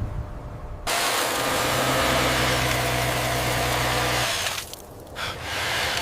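A motor-driven machine running: a hissing, mechanical noise with a steady low hum, starting abruptly about a second in and stopping after about three and a half seconds.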